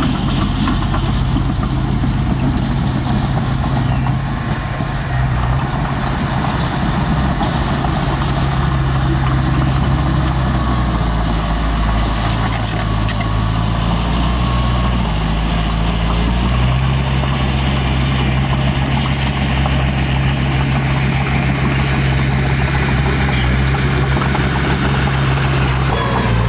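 Heavy diesel engine of earthmoving machinery running steadily, its note shifting for a few seconds around the middle of the clip as the load or throttle changes, with some light metallic clicking.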